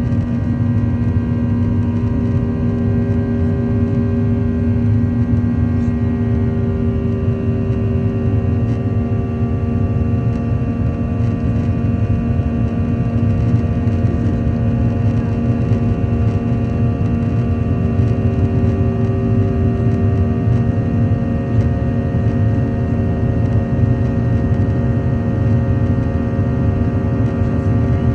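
Airliner's jet engines running loud and steady at high power during takeoff: a dense drone carrying several held tones, a few of which edge slightly upward in the first ten seconds.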